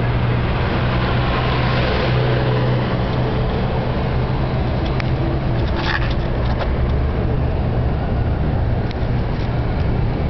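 Redcat Volcano EPX radio-controlled truck running on its brushless electric motor: a steady loud rush with a low hum, and a faint whine that shifts in pitch during the first few seconds.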